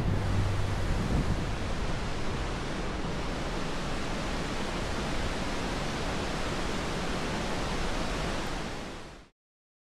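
Steady rush of falling water from a waterfall, fading out about nine seconds in.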